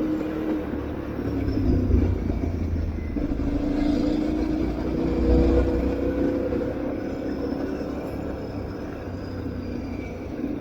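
Aprilia Tuareg 660's parallel-twin engine running off road, its pitch falling and rising with the throttle over a low rumble of wind and terrain, a little quieter near the end.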